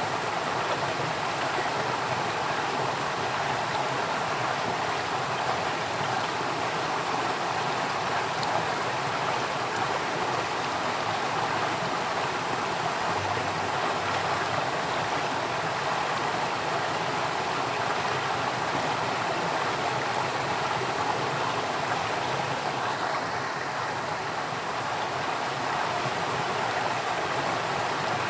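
Water flowing steadily in a stream, an unbroken rushing and babbling.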